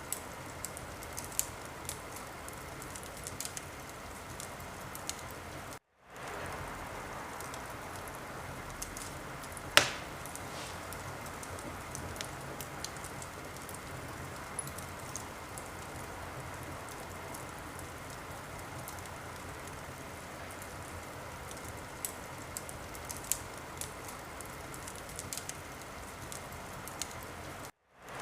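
Wood fire crackling in a fireplace: a steady hiss with scattered small crackles and one loud pop about ten seconds in. The sound cuts out to silence for a moment about six seconds in and again near the end.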